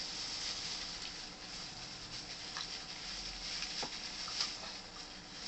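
Faint handling sounds of a plastic bag being twisted and tied: a few soft, scattered clicks and rustles over a steady low hiss.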